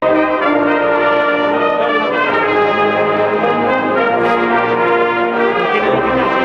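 A Spanish Holy Week processional band (agrupación musical) of cornets and brass with percussion plays a slow march in full, held chords that change every couple of seconds. A single percussion hit sounds about four seconds in.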